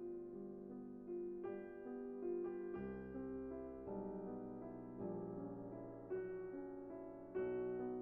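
Background music: a slow, gentle piano melody, its notes struck about once a second.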